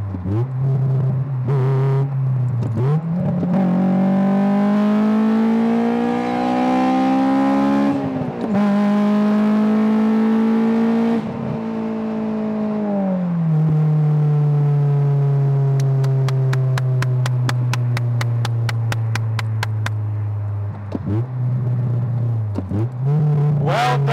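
Honda S2000's high-revving four-cylinder engine under hard acceleration: the pitch climbs steadily for several seconds, drops sharply at a gear change about eight seconds in, climbs again, then falls away after about eleven seconds and settles into a steady, lower note. A run of quick, evenly spaced ticks sounds from about sixteen to twenty seconds in, and the engine note dips and climbs again near the end.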